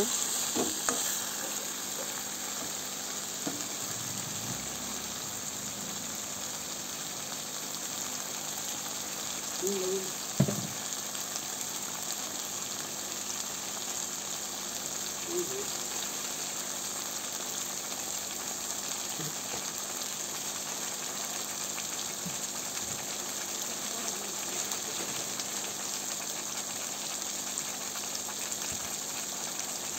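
Spiced fish curry sizzling steadily in oil and masala in a kadai, with one brief knock about ten seconds in.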